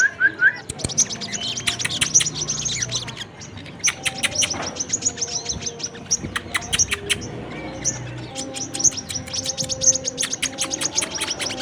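Small songbirds chirping and trilling rapidly and high-pitched, with short lulls about three and seven seconds in. This is a bird-lure recording combining sogon and brown-throated sunbird (kolibri kelapa) calls, used to call birds of these kinds to gather.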